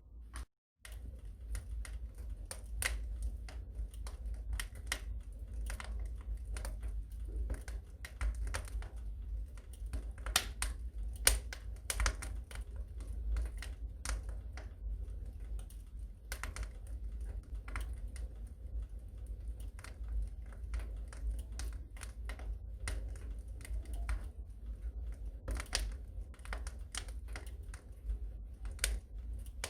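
Wood fire crackling in a fireplace: irregular sharp pops and snaps over a low steady rumble. The sound cuts out completely for a moment just under a second in.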